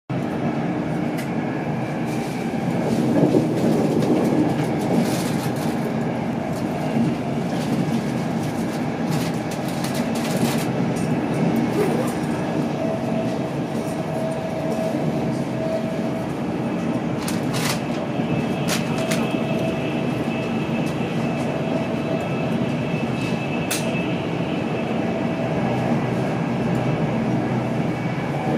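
Steady rumble and rush of an InterCity 225's coach running at speed, heard inside the passenger saloon, slightly louder a few seconds in. A few sharp clicks sound over it, and a faint steady tone joins about halfway through.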